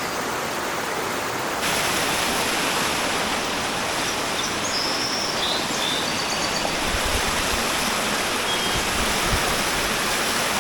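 Fast-flowing jungle stream rushing over rocks, a steady noise that grows louder and brighter about two seconds in.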